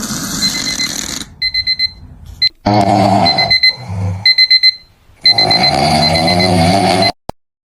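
Rapid electronic beeping in clusters, a high, steady tone pulsing several times a second, mixed in stretches with a loud, rough, wavering noise. It cuts off suddenly near the end.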